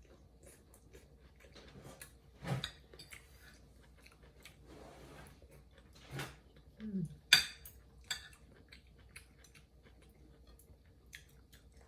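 Scattered clinks and taps of cutlery against plates and dishes, a few sharp knocks with quiet gaps between, the loudest a little after seven seconds.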